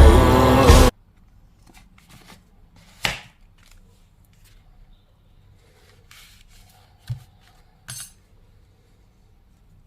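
Music cuts off abruptly about a second in, leaving a quiet room with a few faint, short clicks and knocks of small hard objects being handled; the sharpest comes about three seconds in, with two more a few seconds later.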